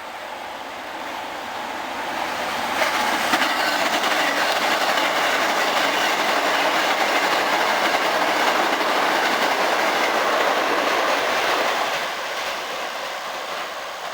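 Hankyu 8300 series eight-car train passing through the station at speed without stopping. It builds up, grows suddenly louder about three seconds in, stays loud for about nine seconds, then fades as it goes by.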